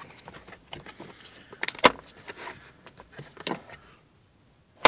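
Scattered small plastic clicks and knocks from car interior fittings being handled, likely the sun visors' vanity mirror covers being flipped open and shut. There is a sharp click about two seconds in, and another at the end after a brief quiet gap.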